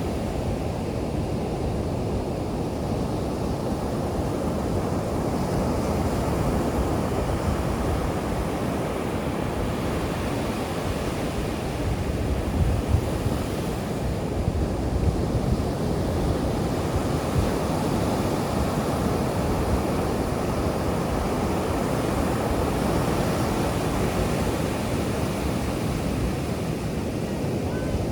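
Ocean surf washing steadily onto the beach, with wind buffeting the microphone in a few gusts around the middle.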